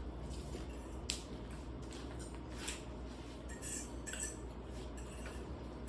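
Cutlery clinking and scraping against plates during a meal: a few light clinks about a second in and again between about two and a half and four and a half seconds in, over a low steady hum.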